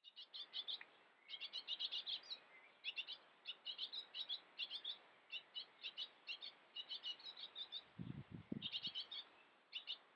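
Small garden birds chirping, short high notes repeated quickly in clusters, with a few low thumps about eight seconds in.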